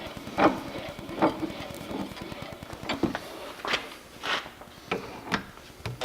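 A series of about eight sharp knocks and clunks at uneven intervals, each ringing briefly.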